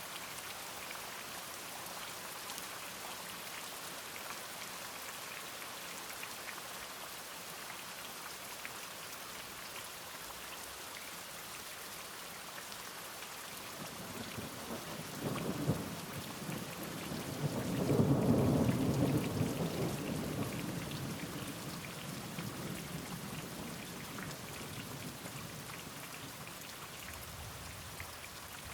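Steady rain falling, with a roll of thunder that builds about halfway through, peaks, and rumbles away over several seconds.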